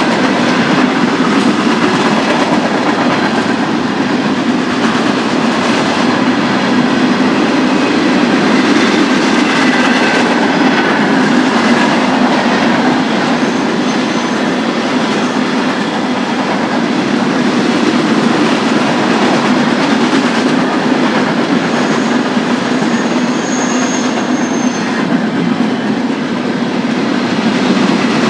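BNSF freight train cars rolling past at track side: a steady, loud rumble of wheels on rail, with a few brief faint high-pitched wheel squeals.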